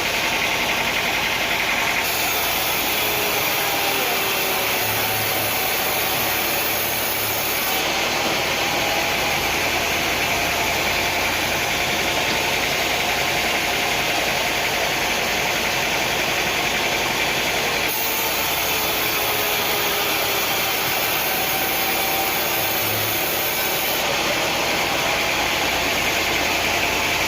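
Sawmill machinery running: a steady engine drone with faint gliding whines, its character changing abruptly a few times.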